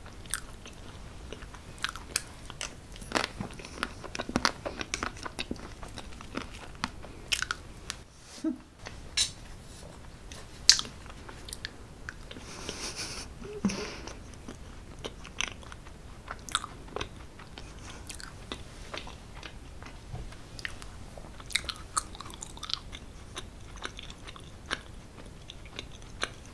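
Close-miked eating sounds: a person chewing and biting food, with many small sharp mouth clicks and crunches at an irregular pace.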